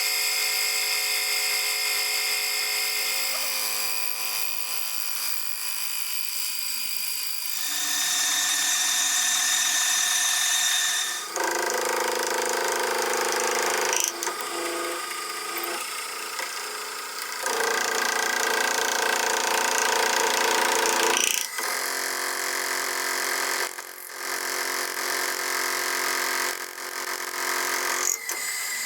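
Electric power tools running with a steady high whine, the pitch and sound changing abruptly every few seconds as one tool gives way to another.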